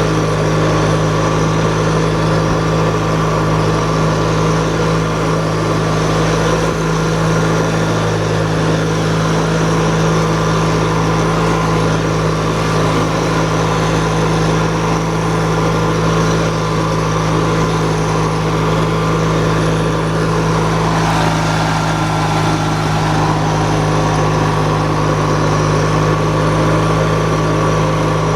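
Riding lawn tractor's small gasoline engine running steadily at high throttle, with a brief dip in tone about twenty seconds in.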